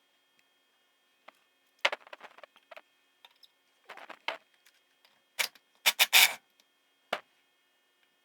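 Scattered clicks and short bursts of clatter from tools and engine parts being handled during a motorcycle engine teardown. There is a cluster about two seconds in, another around four seconds, and the loudest quick clicks around six seconds, with a single click near the end.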